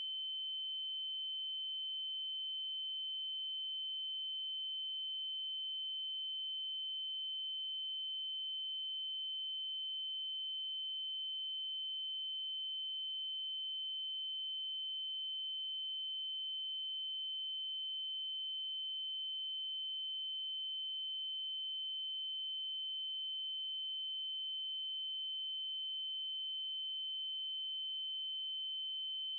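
Synthesized 3072 Hz triangle-wave tone: one steady high-pitched note, held without change.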